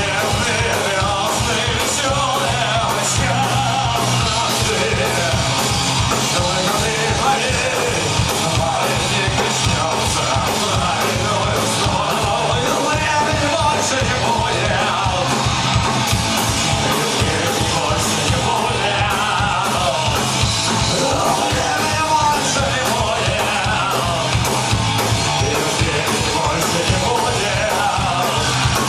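Live punk rock band playing loud: fast, driving drums and electric guitars under shouted singing.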